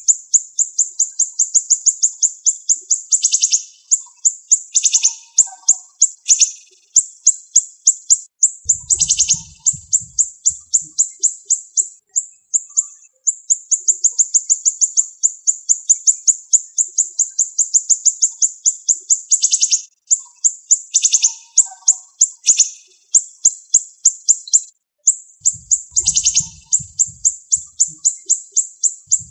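Siri-siri songbird singing a fast, dense, high-pitched trilling chatter of rapid repeated notes, broken every few seconds by louder notes that sweep down in pitch.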